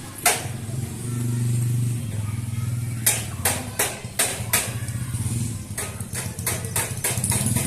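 A motor engine running steadily at a low hum, with a series of sharp knocks over it, sparse at first and then a quick run of them near the end.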